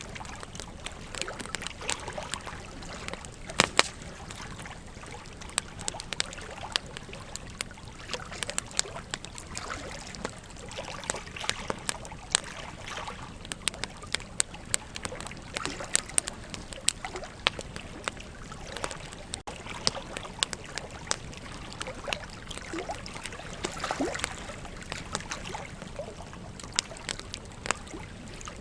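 Wood campfire crackling, with frequent irregular pops and snaps, a few louder ones around four seconds in. Underneath is a steady wash of flowing river water.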